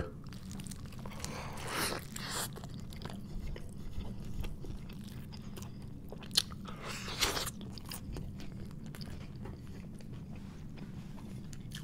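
Close-miked mouth sounds of a man biting into and chewing a homemade bacon cheeseburger, with a couple of louder crunchy bites.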